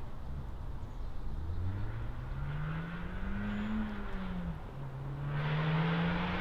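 Honda Civic Type R's turbocharged 2.0-litre four-cylinder, breathing through a catless downpipe and Remus valved cat-back exhaust, accelerating. The pitch climbs for a couple of seconds, dips at a gear change about four and a half seconds in, then holds steady as the exhaust grows louder and rougher near the end.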